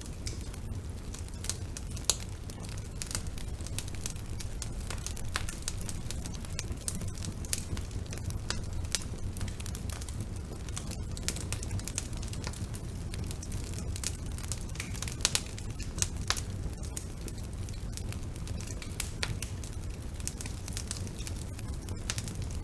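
Wood fire burning in a fireplace: a steady low rumble of flames with irregular crackling and sharp pops from the burning logs, a few louder snaps scattered through.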